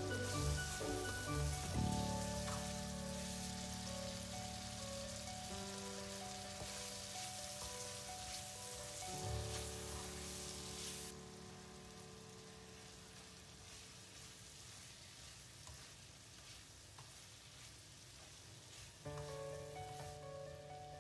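Chicken and vegetables sizzling in a hot wok as they are stir-fried, over soft background music of held chords. The sizzle fades about halfway through, leaving mostly the music.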